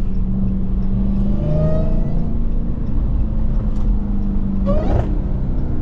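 Dodge Charger Hellcat's supercharged 6.2-litre V8 running steadily while driving, heard from inside the cabin, with a brief rising whine about a second and a half in.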